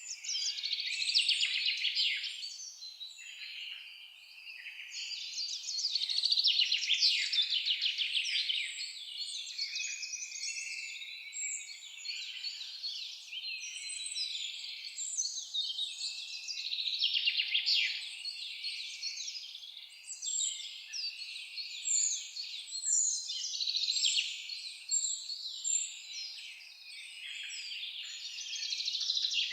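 Forest songbirds singing in a dense chorus of overlapping quick chirps and trills, swelling and easing every few seconds.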